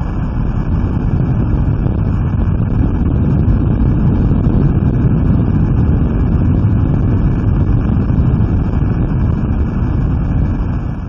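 Hydrophone recording of the 2011 Japan earthquake: a loud, steady, deep rumble with no clear pitch, which drops away at the very end.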